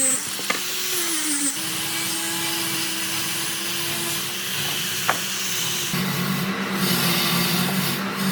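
Power tool motor running while working wood, its pitch sagging briefly as it takes load, with two sharp knocks. About six seconds in, a lower, rougher machine sound takes over.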